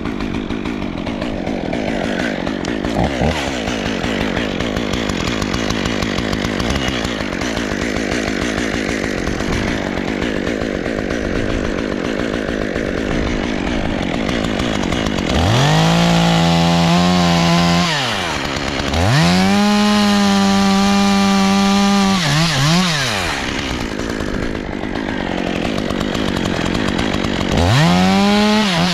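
Two-stroke chainsaw running. For the first half it runs at a lower, rougher note. Then it revs up to a high steady note three times, about 15 seconds in, about 19 seconds in, and near the end, holding each for a couple of seconds before dropping back.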